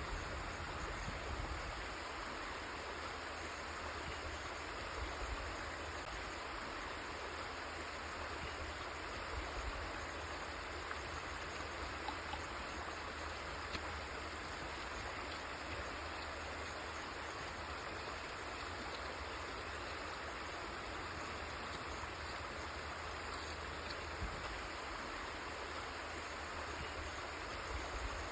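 River water flowing over rocks in a steady rushing babble, with a low rumble underneath.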